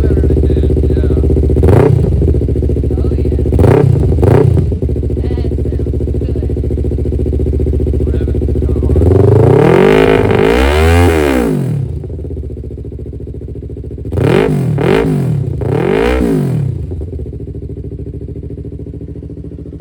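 Yamaha MT-03's 321 cc parallel-twin engine idling through a newly fitted MIVV full exhaust system on its first start, blipped briefly once about two seconds in and twice around four seconds. About nine seconds in it is held in a longer rev that rises and falls back, then three quick blips follow before it settles back to idle.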